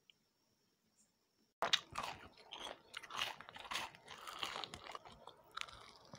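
Crunchy biting and chewing of fried pakoda, a dense, irregular run of crisp crunches that starts abruptly about a second and a half in, after near silence.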